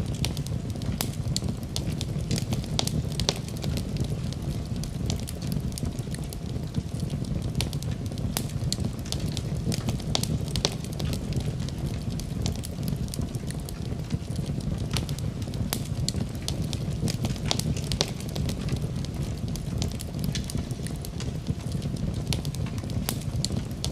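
Fireplace fire crackling, with frequent irregular pops and snaps over a steady low rumble.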